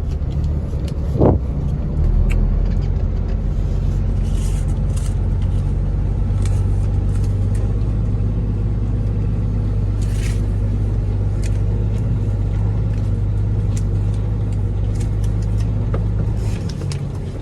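Dump truck's diesel engine running with a steady low hum. A short knock comes about a second in, the engine note steps up just after, holds steady, and eases back down near the end.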